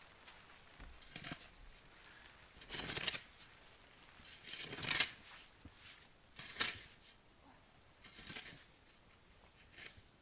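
Irregular rustling and scuffing in four or five short bursts, the loudest about five seconds in.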